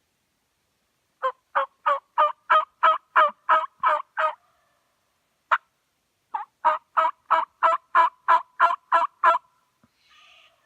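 Two long series of turkey hen yelps, about three evenly spaced notes a second, with a single yelp between them, sounded on a turkey call to bring in a tom.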